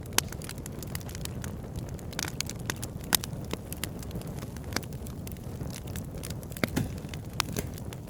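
Campfire crackling, with sharp irregular pops a few times a second over a steady low rumble.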